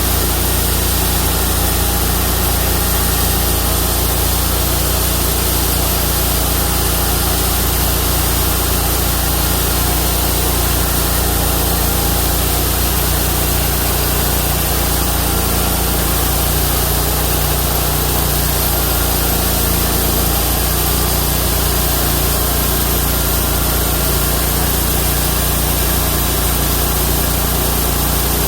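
Homemade bandsaw mill's 31 hp engine running steadily, driving the carbide band blade.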